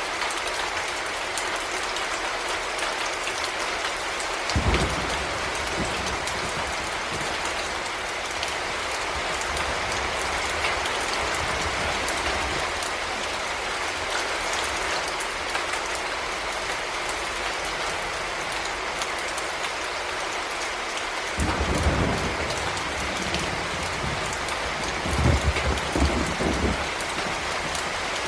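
Heavy rain falling steadily, with a few brief low rumbles about five seconds in and again near the end.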